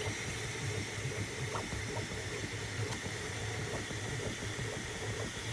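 3D printer running mid-print: a steady fan hiss over a low motor hum that rises and falls as the print head moves.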